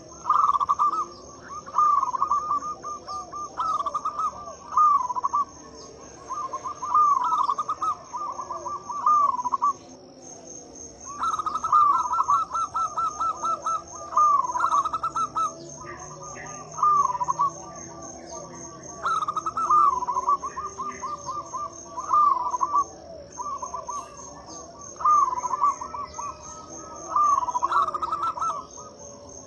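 Zebra dove (perkutut) calling over and over, in the classic local style: each phrase is a quick stuttering run that ends in looping, warbled coos, repeated every couple of seconds. A steady, evenly pulsing high-pitched trill runs beneath it.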